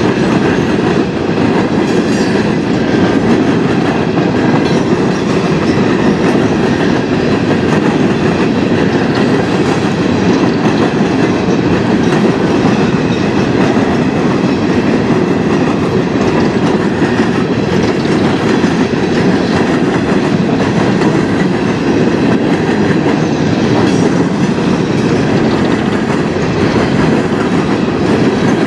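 Freight cars rolling past close by: a loud, steady rumble and clatter of steel wheels on the rails.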